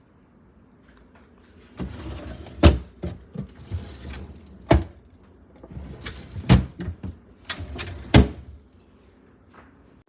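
Clatter and knocks of things being taken out of a fridge and handled, starting about two seconds in, with about four sharp knocks among the rustling and bumping.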